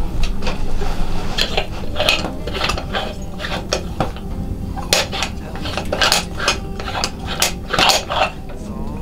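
Irregular clinks and knocks of dishes and metal utensils being handled, over a faint steady low hum.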